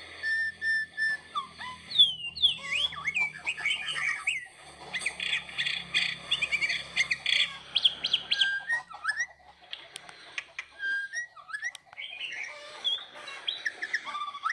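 Many birds chirping and calling at once, a dense mix of short chirps and whistled glides that thins out after about eight seconds.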